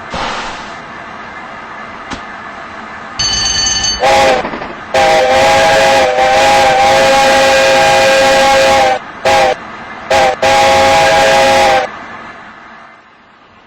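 Steam whistle of a Black 5 steam locomotive blowing over a steady hiss of steam. A brief high whistle comes about three seconds in, then the locomotive's chord-like whistle gives one long blast, two short blasts and a last long blast, after which the sound fades.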